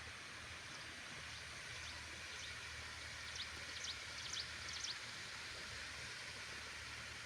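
Steady rush of flowing water. Around the middle comes a brief run of short, high chirps.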